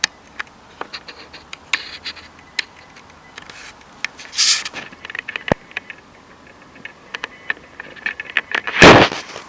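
Scattered small clicks and crackles, a short hiss about halfway through, then one sharp loud bang near the end.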